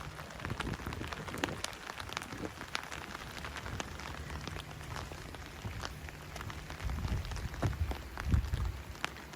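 Steady rain falling, with many separate drops ticking sharply close by, and a low rumble underneath in the second half.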